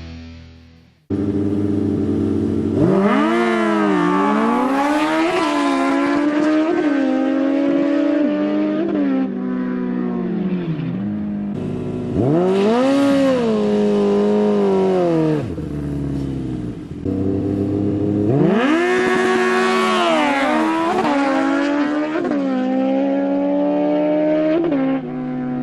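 Motorbike engines revving, the pitch climbing and falling again in several long sweeps.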